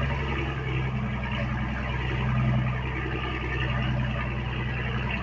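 Fishing boat's engine running steadily, a constant low drone with a noisy wash above it, while the boat manoeuvres.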